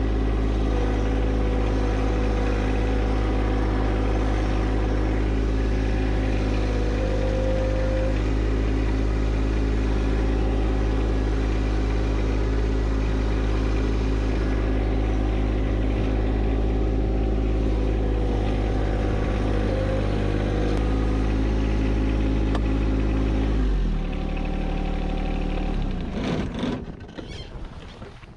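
John Deere 1025R compact tractor's three-cylinder diesel engine running steadily at a high, constant speed. About 24 seconds in it drops to a lower speed, and it dies away near the end.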